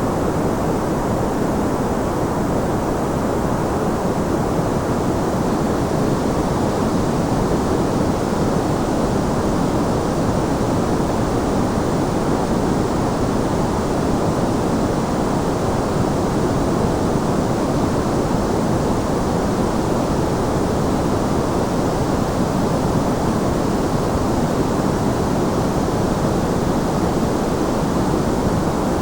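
Steady, unchanging white noise of the kind played for sleep, with most of its weight in the low and middle range.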